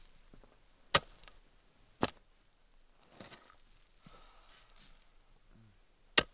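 A shovel's steel blade striking gravelly dirt in short, sharp hits: two about a second apart, then a fainter one, then one more near the end.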